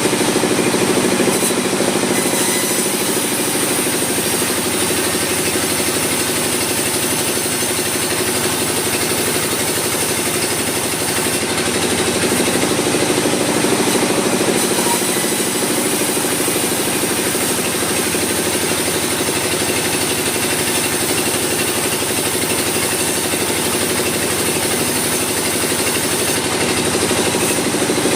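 Sawmill machinery running steadily: a continuous mechanical drone with a hum and a fast pulsing, at an even level throughout.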